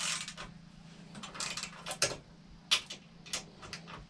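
Hand tools and metal parts clicking and clinking as parts are taken off a motorcycle: a handful of sharp, irregular ticks over a low steady hum.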